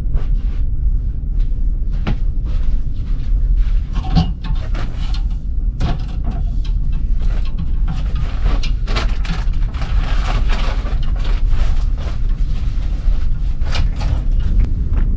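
A steady low mechanical rumble, with frequent clicks, knocks and rustling handling noises over it.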